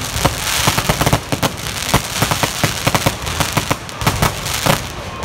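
Aerial fireworks bursting overhead: a rapid, irregular run of sharp pops and bangs over a steady hiss.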